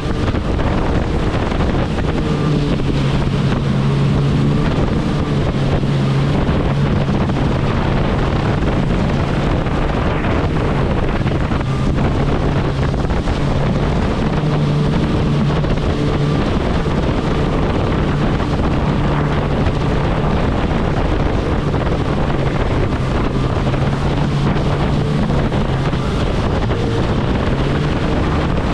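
Kawasaki jet ski engine running steadily at speed, a constant droning hum, with wind buffeting the microphone.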